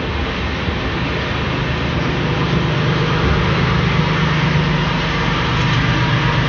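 Train running at speed: a steady rumble and rush, with a low hum that grows stronger after the first second or two.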